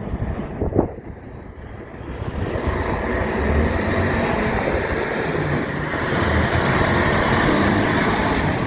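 Heavy truck approaching and passing close by: engine and tyre noise builds from about two seconds in and stays loud, with a thin high whine rising and falling above it. A single sharp knock sounds about a second in.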